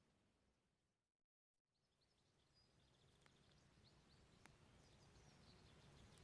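Very faint outdoor ambience with distant birds chirping, fading out to complete silence just after a second in and fading back up.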